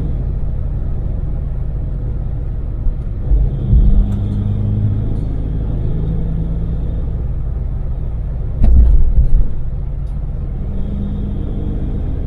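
Daewoo Damas mini van's small three-cylinder LPG engine running at cruise, with a steady low rumble of engine and road noise. Twice, about four seconds in and again near nine seconds, heavy low thumps break through.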